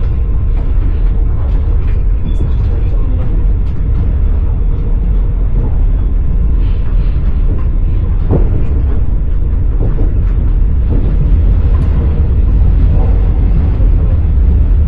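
Passenger train running, heard from inside the carriage: a steady low rumble with the occasional knock of the wheels over rail joints.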